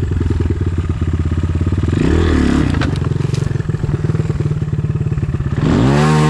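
Enduro motorcycle engine running at low revs, the throttle blipped twice, briefly about two seconds in and harder near the end, as the bike is eased over a slippery log. A few light knocks about three seconds in.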